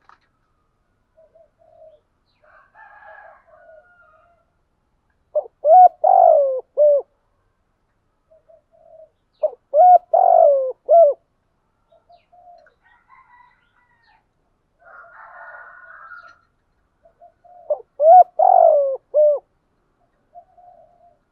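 Spotted dove cooing: three loud coo phrases about four and eight seconds apart, each a short opening note followed by longer falling coos, with softer coos and faint twittering in between.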